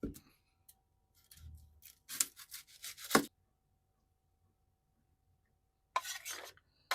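Breakfast being prepared in a small kitchen: a series of short scrapes and knocks of food and utensils being handled, in two clusters, the loudest knock about three seconds in.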